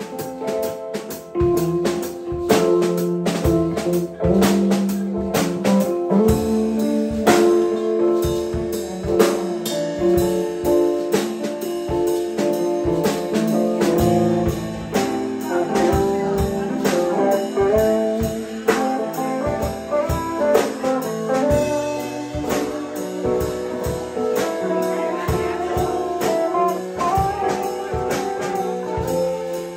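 Live band playing a jam: sustained melodic lines over regular drum hits.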